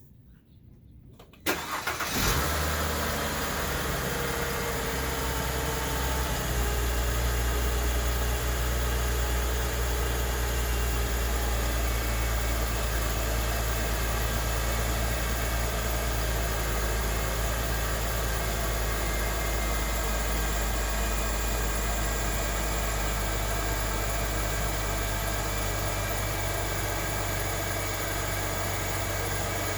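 Car engine on a cold start, heard with the hood open: it cranks briefly and catches about a second and a half in, then settles into a steady idle.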